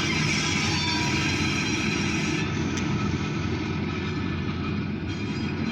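Short freight train's last cars rolling past on the rails: a steady low rumble with faint high ringing tones that thin out about halfway through.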